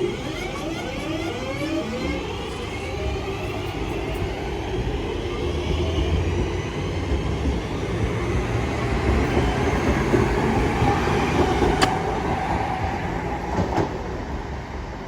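Class 323 electric multiple unit pulling away, its traction motors giving a rising whine in several tones over the first few seconds, then running and wheel noise building as it gathers speed. A single sharp click about twelve seconds in.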